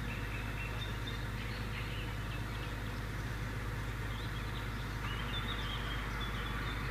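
Small birds singing in short chirps and warbles over a steady low rumble.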